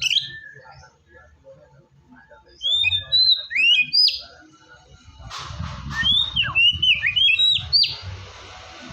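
White-rumped shama (murai batu) singing loud, clear whistled phrases that glide up and down. There is a note right at the start, a short run about three seconds in, and a longer, denser run from about five and a half to eight seconds, over a faint hiss.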